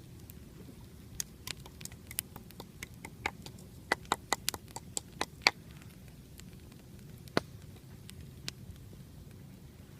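Campfire crackling: irregular sharp pops, thickest near the middle, over a low steady noise.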